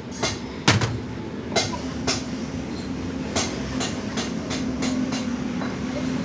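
Irregular sharp clicks and knocks, about two a second and the loudest about a second in, over a steady low hum.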